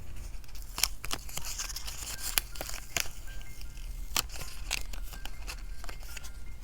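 Stationery being handled while decorating a journal: a scattered series of crisp snips, taps and paper rustles, such as scissors cutting and stickers or paper being peeled and placed. Faint soft background music runs underneath.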